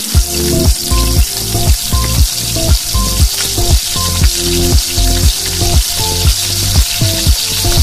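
Ground pork, onion and tomato sizzling in hot oil in a pan, a steady frying hiss. Background music with a steady beat of about two thumps a second plays over it.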